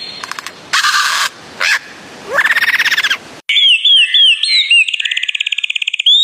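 Songbird calls. First come hissy chirps and fast trills, then a sudden cut about halfway through to clean, repeated whistled notes that swoop up and down, with a rapid trill near the end.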